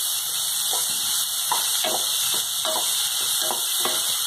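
Tomatoes, peas and masala frying in a kadhai with a steady sizzle, while a wooden spatula stirs and scrapes the pan about twice a second.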